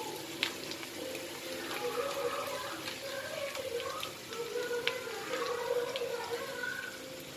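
Potatoes and onion sizzling in oil in a kadai, with a few sharp clicks of a metal spatula against the pan. Background music with a melody plays throughout.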